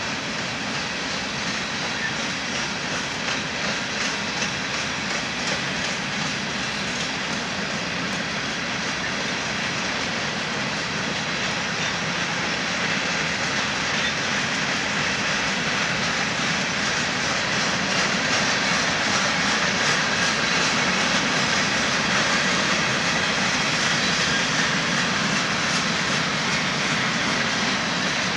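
Freight train of covered hopper cars rolling past: a steady rumble and hiss of steel wheels on rail, a little louder in the second half.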